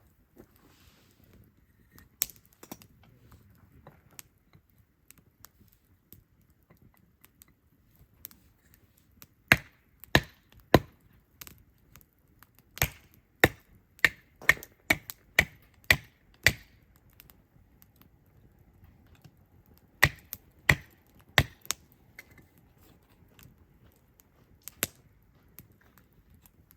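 Sharp cracks of firewood in short runs of about two a second: three at first, then about eight in a row, then three more, and a single one near the end. Faint low crackle lies between them.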